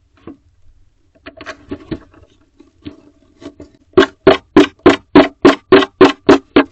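Female barn owl scratching the inside wall of her nest box: a few irregular scrapes and knocks, then about four seconds in a steady run of strong, resonant scratching strokes, about three a second.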